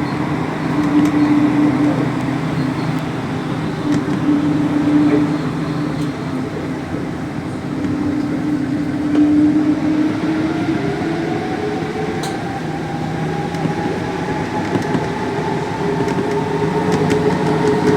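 Santiago Metro NS16 train running, with a steady rumble and a hum of several tones. From about ten seconds in, an electric traction whine rises in pitch as the train speeds up.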